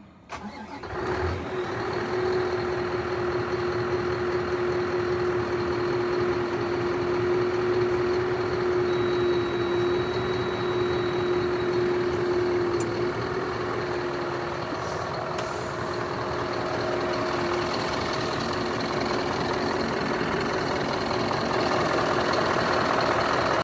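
Scania R560 truck's V8 diesel engine cranking and catching about half a second in, then running steadily. A steady hum sits over the engine and stops about three-quarters of the way through.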